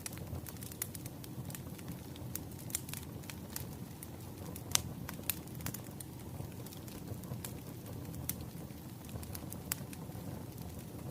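A wood fire crackling: irregular sharp pops and snaps over a steady low rumble of the burning logs, with one louder pop about halfway through.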